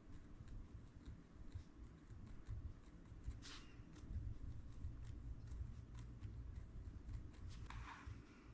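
Pen marking the paper pages of a book: soft scratchy strokes and small clicks over low handling bumps, with two short louder swishes of paper, one a few seconds in and one near the end.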